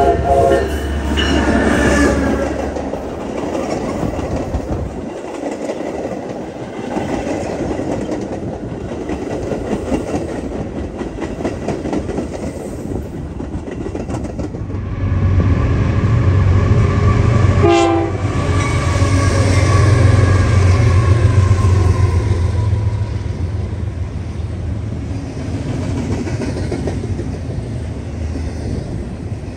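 A train passing, its wheels clicking over the rail joints, with a horn sounding in the first couple of seconds. About 15 s in a low engine rumble swells and fades again, and a short tone drops sharply in pitch about 18 s in.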